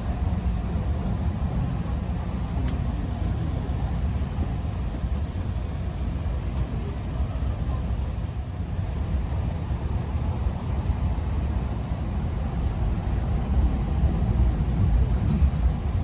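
Keihan limited express electric train running, a steady low rumble heard from inside the passenger car.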